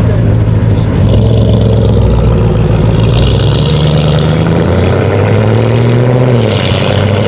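Car engine running loudly, its pitch climbing as it pulls from about five seconds in and dropping back just before the end.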